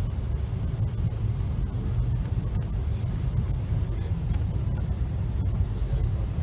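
Steady low rumble of a Virgin Pendolino (Class 390) electric train running, heard from on board.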